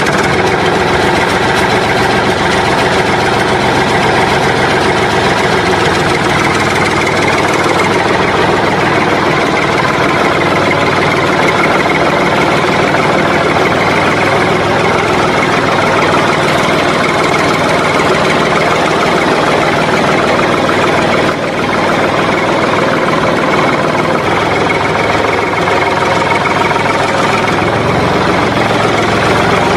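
An engine running steadily at an even speed, with a brief dip in level about twenty seconds in.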